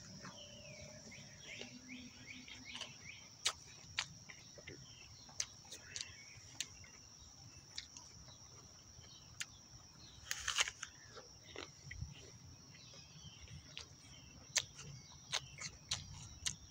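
Mouth noises of someone biting and chewing a crisp apple close to the microphone: scattered wet crunches and clicks, with a louder crunching bite about ten seconds in. A steady high-pitched whine runs underneath.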